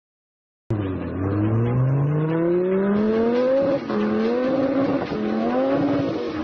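Sports car engine accelerating hard through the gears, cutting in abruptly under a second in. Its pitch climbs steadily, drops at an upshift near the middle and again about five seconds in, then climbs once more.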